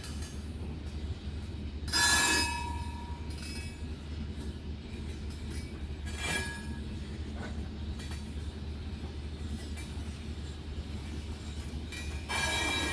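A long iron-ore freight train running with a steady low rumble, with short high metallic wheel squeals: the loudest about two seconds in, a fainter one around six seconds, and another near the end.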